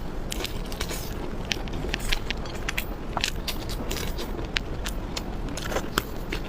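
Close-miked eating: chewing with many small, irregular wet clicks and crackles from the mouth.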